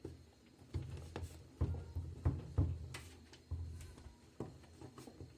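Irregular knocks, clunks and clicks of washing-machine parts being handled and fitted by hand, about eight dull thuds over a few seconds.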